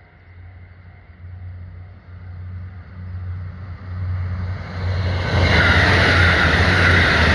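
A train approaching and running past close by, its rolling noise growing steadily louder and loudest in the last two seconds.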